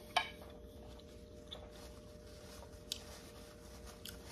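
Quiet chewing of a mouthful of chitlins and collard greens, with a few faint clicks. The sharpest click comes about three seconds in.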